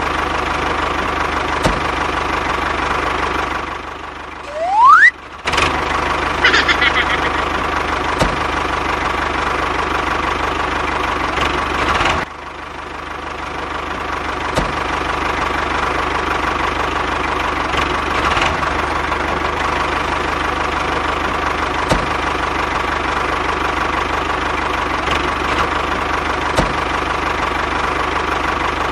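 Small electric motor of a DIY toy tractor running with a steady whining hum. About four seconds in it briefly falls away, gives a loud rising whine and picks up again. Around twelve seconds it drops suddenly and then builds back to its steady hum.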